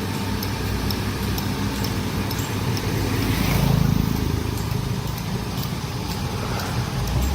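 Heavy diesel machinery engine running steadily, swelling louder for a moment about three and a half seconds in, with faint light clicks over it.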